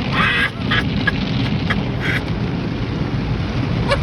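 Automatic car wash working over a car, heard from inside the cabin: a steady low rumble of water and machinery on the body, with a few short hissing bursts of spray in the first couple of seconds.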